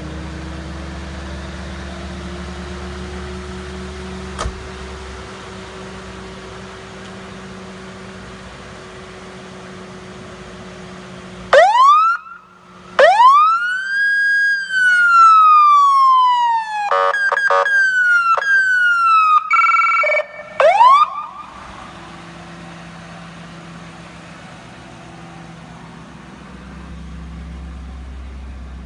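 Police car siren sounded for about ten seconds over the car's idling engine: a slow rising-and-falling wail, then quicker falling sweeps, a short buzzing horn tone and two quick whoops, after which only the engine idle remains.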